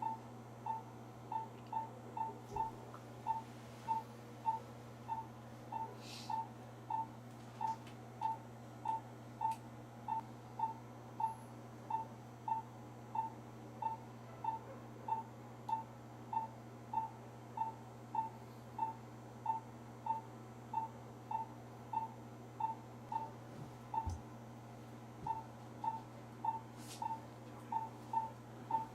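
Veterinary patient monitor beeping with the animal's pulse: short single-pitch beeps about one and a half a second, briefly pausing about four-fifths of the way through, over a steady low electrical hum.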